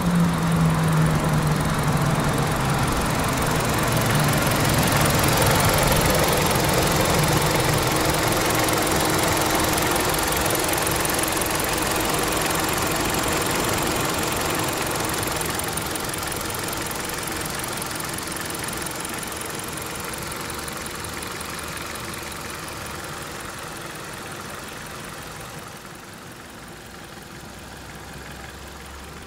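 2017 Kia Rio's 1.6-litre naturally aspirated inline-four engine idling steadily, gradually getting quieter through the second half.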